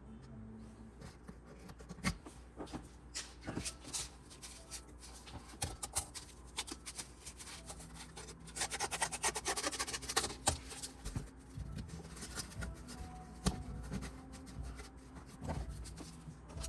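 Cardboard being handled and pushed into place, with scattered clicks and crinkles and a stretch of scratchy rubbing about nine seconds in.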